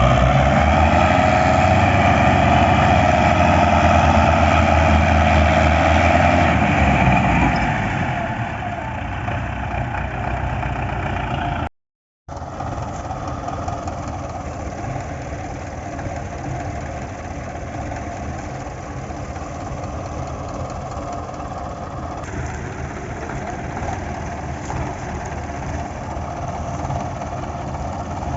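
Tractor diesel engine running: loud for the first several seconds, then settling lower. A short cut to silence comes about twelve seconds in, after which the engine runs on steadily.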